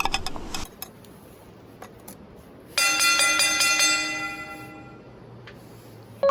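A single bell-like metallic ring, struck suddenly and fading away over about two seconds, after a brief stretch of outdoor noise with a few clicks; a short ding sounds right at the end.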